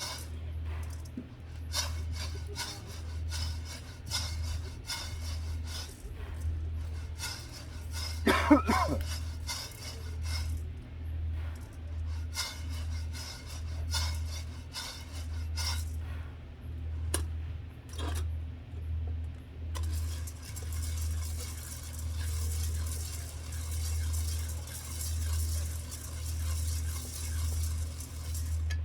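Dishes and utensils clinking and scraping in a string of short clicks over a steady low pulsing hum, with a brief pitched squeak about eight seconds in.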